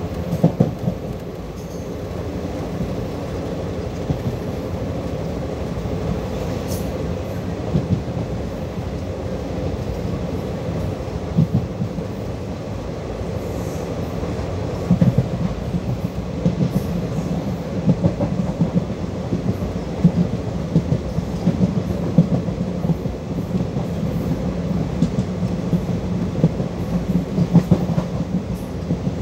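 Indian Railways passenger coach running along the track, heard from its open window: a steady rumble of wheels on rails with irregular clicks and knocks, which come more often in the second half.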